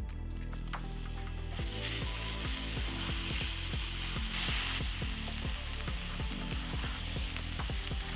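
Minced garlic sizzling as it fries in melted butter in a frying pan, stirred with a spatula. The sizzle swells about a second and a half in and is loudest around the middle.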